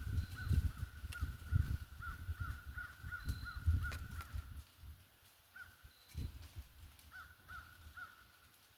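Birds calling outdoors: a fast run of short, repeated calls that thins to a few scattered calls about halfway through. A low rumble is loudest in the first half and stops at about the same point.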